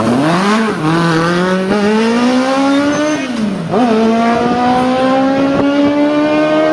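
Yamaha R1 inline-four motorcycle engine in a Zaporozhets car accelerating hard through the gears: a rising engine note that drops sharply at a shift about a second in and again about halfway through, then climbs again.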